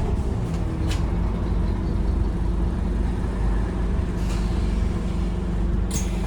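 Scania OmniCity bus's diesel engine running steadily, heard from on board. Short air hisses come about a second in and again near the end.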